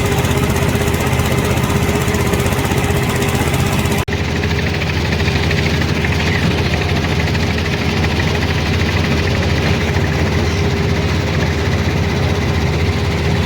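Motorboat engine running steadily with a low, even hum, broken by a sudden cut about four seconds in before it carries on.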